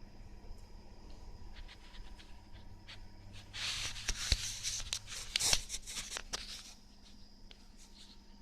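Handling noise: a few seconds of crinkly rustling and scraping with several sharp clicks, starting about three and a half seconds in, over a faint steady hum.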